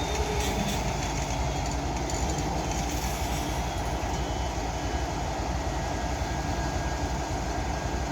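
Train cars rolling on the rails, a steady, even noise of wheels and running gear.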